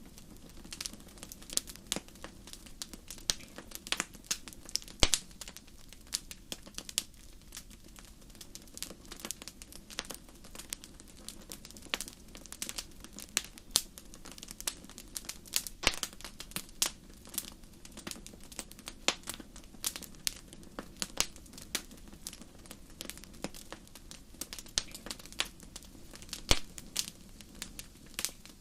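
Wood fire in a fireplace crackling steadily, with many irregular sharp pops over a soft low hiss.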